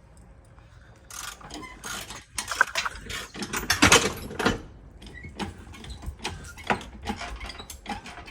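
Irregular metallic clicks and clanks of tools and lifting gear at work on an engine being pulled, with a cluster of louder knocks about four seconds in.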